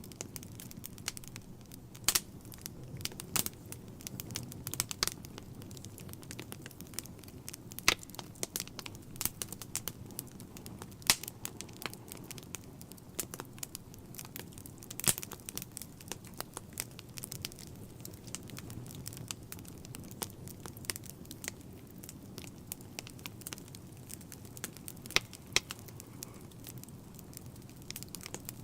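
Wood fire burning in a fireplace: a steady low rumble of flames with irregular sharp crackles and pops, a few much louder than the rest.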